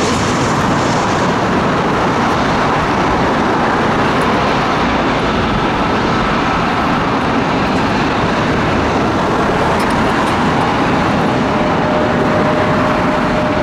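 Jet airliner engines running: a loud, steady rush of noise, with a faint high whine coming in near the end.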